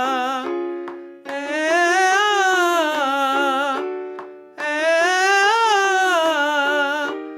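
A man singing vocal-exercise scales up and down across his break into head voice, three rising-and-falling phrases, with a keyboard sounding steady notes in the gaps between them.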